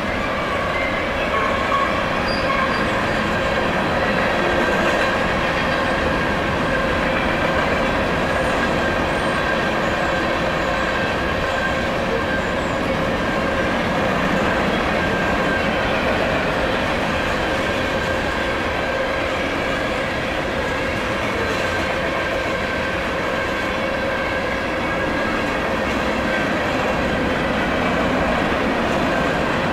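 Cars of a freight train rolling past: a steady rumble and clatter of steel wheels on rail, with a faint, steady high-pitched squeal from the wheels over it.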